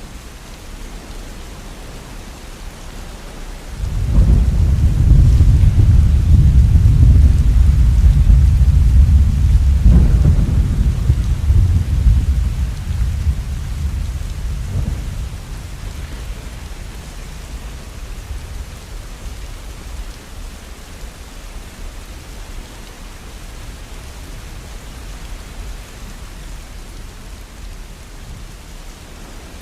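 Steady falling rain, with a long low rumble of thunder that starts suddenly about four seconds in, stays loud for several seconds and fades out slowly over the next several seconds.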